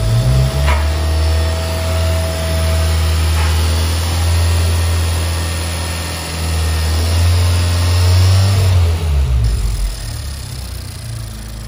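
Honda Civic Type R FK8's 2.0-litre turbocharged four-cylinder engine idling steadily on its new big-bore throttle body, its idle speed dropping and settling lower near the end. The idle is smooth, showing no vacuum leaks at the new gaskets.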